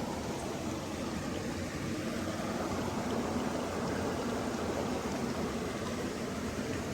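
Running water, a steady, even rush with no breaks or surges.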